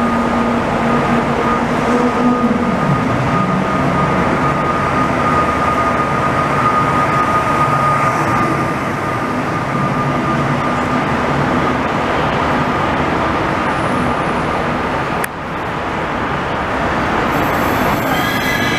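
Israel Railways double-deck passenger train running past along a station platform: a steady rumble of wheels on rail with a steady whine over it. A high-pitched wheel squeal starts near the end.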